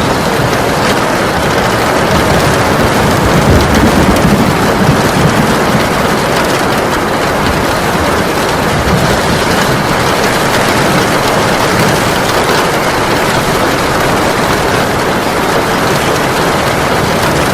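Heavy rain pouring steadily. A low rumble swells a few seconds in, then eases back under the rain.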